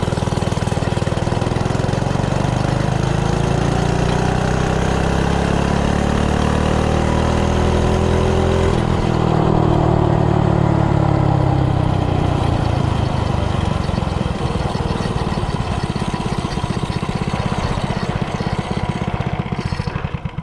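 Coleman CC100X minibike's 3 hp single-cylinder four-stroke engine, fitted with an advanced flywheel key, pulling at full throttle with its pitch climbing steadily for about nine seconds as the bike accelerates. The pitch then drops suddenly as the throttle comes off and keeps falling while the bike slows.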